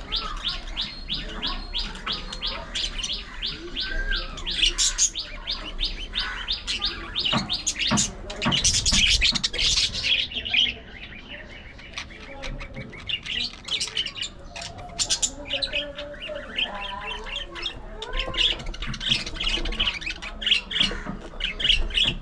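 A flock of budgerigars chattering, with rapid, repeated high chirps throughout and a louder, noisier burst of calls about eight seconds in that lasts a couple of seconds.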